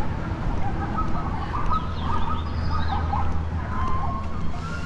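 Birds chirping and calling in short, quick phrases over a steady low rumble.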